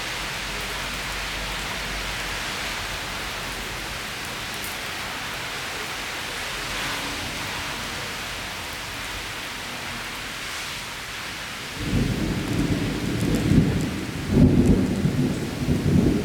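Heavy rain falling steadily in a thunderstorm, then about twelve seconds in a loud rumble of thunder rolls in and swells twice, louder toward the end.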